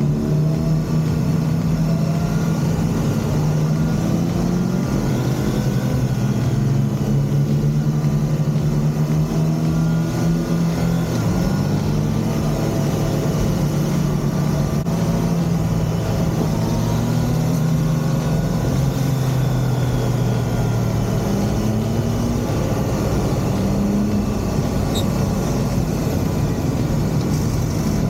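Triumph Tiger 660's inline three-cylinder engine running on the move, its note rising and falling gently with the throttle over a steady low rumble.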